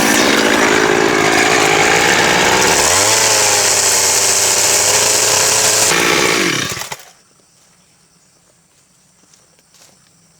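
Power saw, most likely a chainsaw, running loud while cutting timber, its pitch dipping and recovering as it takes load. It winds down and stops about seven seconds in, leaving a quiet background with a few faint ticks.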